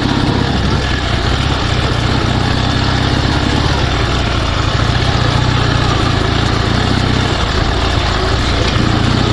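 Dnepr 16 sidecar motorcycle's flat-twin engine running steadily, pulling in second gear over sand, with a steady hiss of wind and road noise.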